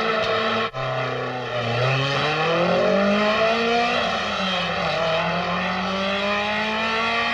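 Racing car engine accelerating hard, its pitch climbing, falling once at a gear change about four and a half seconds in, then climbing again. A brief sudden break less than a second in.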